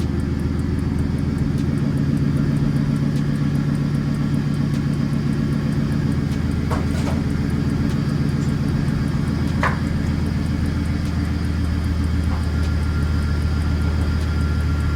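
Car engine idling steadily after an engine overhaul, left to settle down to idle on its own while being checked for a misfire; a few faint clicks sound over the drone.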